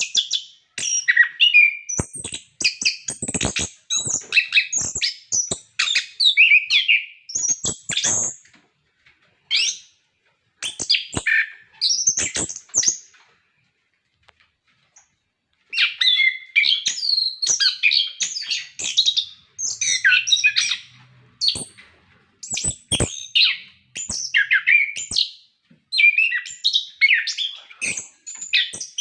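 Chestnut-capped thrush (anis kembang) singing in full voice: a fast, continuous run of varied high whistled and twittering phrases mixed with sharp clicking notes. It breaks off for about two seconds midway, then resumes.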